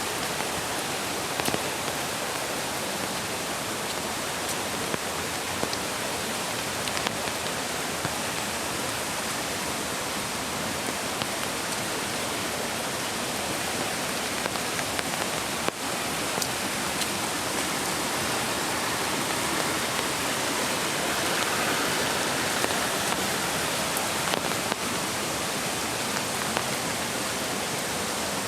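Steady rush of a mountain creek flowing beside the path, mixed with light rain falling on the forest, with scattered small drip ticks. The water noise swells slightly for a few seconds about two-thirds of the way through.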